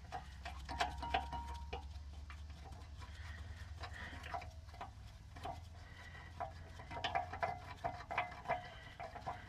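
Irregular metallic clicking and ticking of a ratchet wrench working a 14 mm caliper bracket bolt loose, the clicks coming in quicker clusters in the last few seconds, over a low steady hum.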